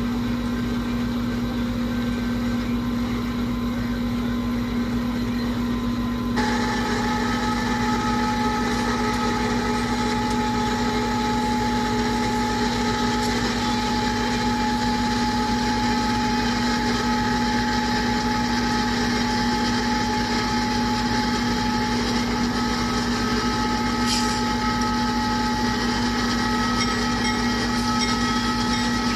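Train hauled by GE AC4400CW diesel-electric locomotives running, a steady drone with several held tones; it gets louder and brighter about six seconds in.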